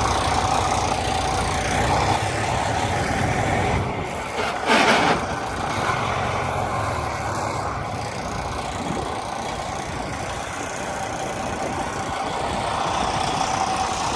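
Semi truck's diesel engine running at low speed while backing, with a steady mid-pitched whine over the rumble. About five seconds in, a loud half-second burst of hissing noise stands out above the engine.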